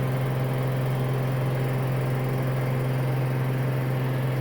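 Samsung AddWash front-loading washing machine in its high-speed spin near the end of the cycle, a steady low hum with a faint whirr.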